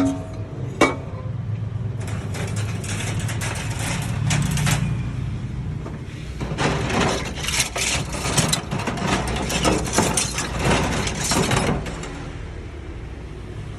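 Kitchen work sounds: a steady hiss for a few seconds, then several seconds of rapid, irregular clattering and scraping, quieter near the end.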